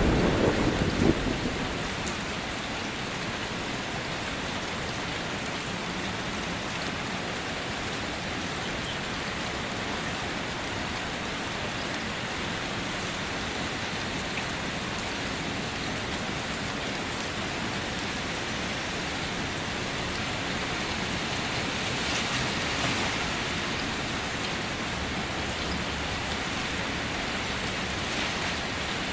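Steady, heavy rain falling. The rumble of a thunderclap dies away over the first couple of seconds, and the rain swells slightly about two-thirds of the way through.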